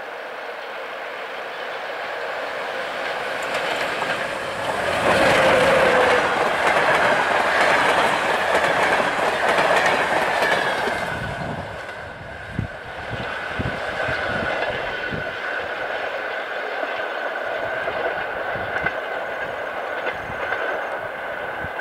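EP07 electric locomotive and its passenger coaches passing at speed. The rush of the train builds up and peaks about five seconds in as the locomotive goes by, and the coaches rush past with their wheel noise. A few deep wheel thumps come as the last coaches clear, then the sound fades as the train draws away, leaving a thin steady high whine.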